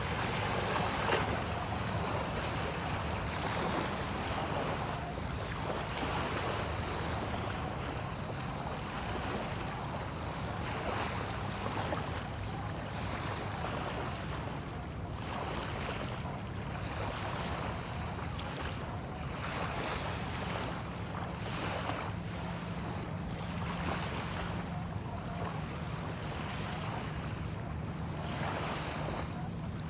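Small bay waves washing in and out, each wash rising and falling every second or two, with wind on the microphone and a steady low hum underneath.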